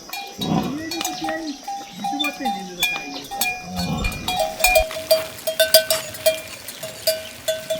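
Livestock bells clanking irregularly as the animals move, at two different pitches; the lower-pitched bell rings in quick strokes in the second half.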